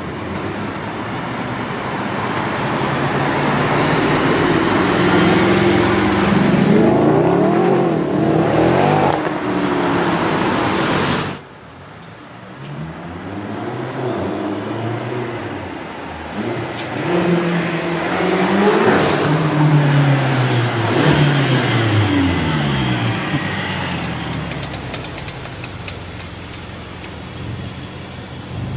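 High-performance car engines accelerating hard, the engine note climbing and dropping again through repeated gear changes, over street traffic noise. About a third of the way in the sound cuts off abruptly, and further cars accelerate past after it.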